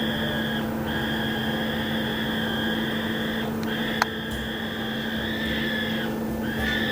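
Cockatoo chick giving its long, drawn-out begging call while being fed by its parent: steady calls of about three seconds each with short breaks between them, over a constant low hum, and a single sharp click about four seconds in.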